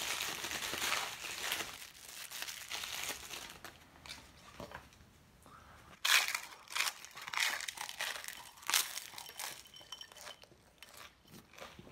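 Crinkling and rustling for about the first four seconds, then about six seconds in a loud crunching bite into a crisp puffed cake, followed by noisy open-mouthed chewing with a string of crunches that die down near the end.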